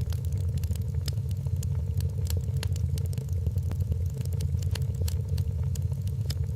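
Wood fire burning in a fireplace: a steady low rumble of the flames with scattered sharp crackles and pops, several a second.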